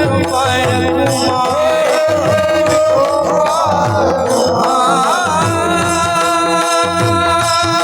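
Marathi kirtan devotional music: a gliding melody over a steady held drone, with a regular mridang drum pattern underneath.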